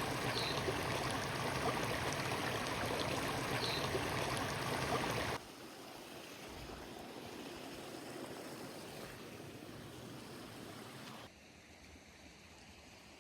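Steady rushing water sound, like a mountain stream or heavy rain, that drops suddenly in level twice, about five seconds in and again about eleven seconds in. Two faint short high chirps sound in the first four seconds.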